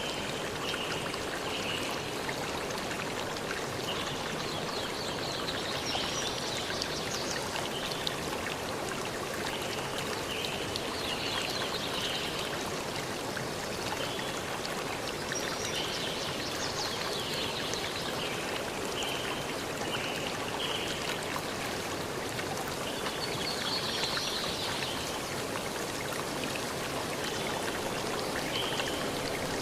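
River stream rushing steadily over rocks, with birds chirping in short bursts every few seconds above it.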